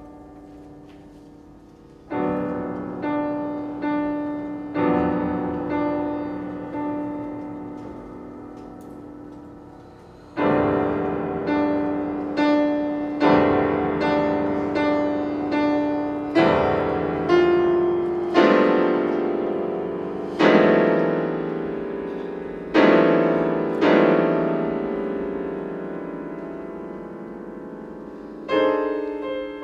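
Piano playing slow, loud chords, each struck and left to ring and die away. A run of chords about once a second is followed by a fade of a few seconds, then a longer series of chords resumes about a third of the way in.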